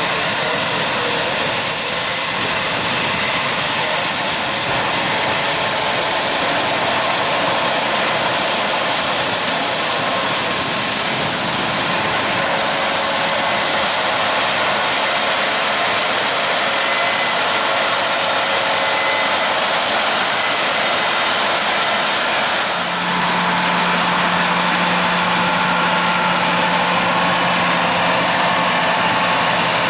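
Engines of large farm machinery, combines and tractors, running steadily at a corn harvest. About 23 seconds in, a steady low hum joins the noise.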